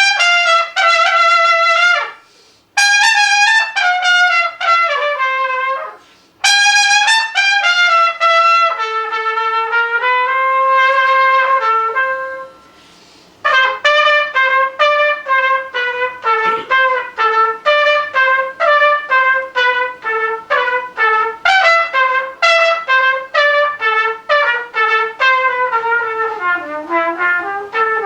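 A single wind instrument playing an unaccompanied solo in quick runs of short notes, with brief pauses for breath about two, six and thirteen seconds in.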